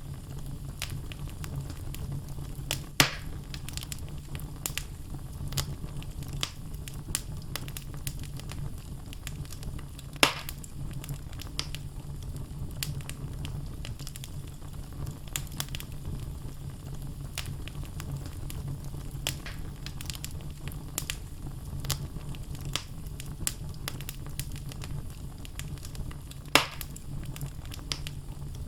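Wood fire burning in a fireplace: logs crackling with many small snaps over a steady low rumble, and three louder pops about 3, 10 and 26 seconds in.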